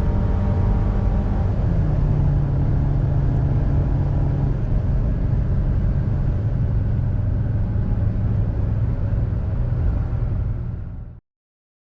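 Interior sound of a Suzuki XL6's 1.5-litre four-cylinder petrol engine pulling hard during an acceleration run, with road and wind noise. The engine note drops once about two seconds in, then it fades and cuts off abruptly near the end.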